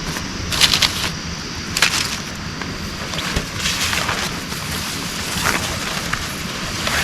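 Heavy rain falling steadily. A few short sharp sounds cut through it, about a second, two, four and five and a half seconds in.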